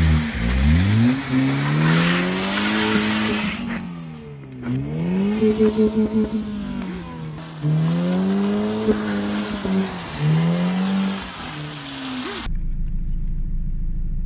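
Car engine revving hard again and again, its pitch climbing and falling several times as the car slides with its wheels spinning on snow, with a hiss of tyres over the first few seconds. About twelve seconds in it cuts suddenly to a steady low hum.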